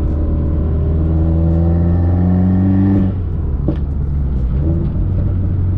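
Turbocharged flat-four engine of a heavily modified Subaru WRX pulling under acceleration, its revs climbing for about two seconds, then dropping sharply about three seconds in as the throttle comes off or a gear changes, after which it runs on at lower revs.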